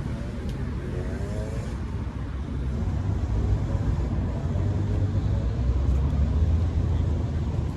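A car engine running close by, a low rumble that grows louder about three seconds in.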